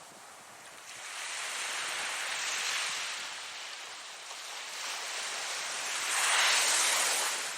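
Ocean waves breaking and washing in: two swells of surf noise, the second, around two-thirds of the way through, the louder.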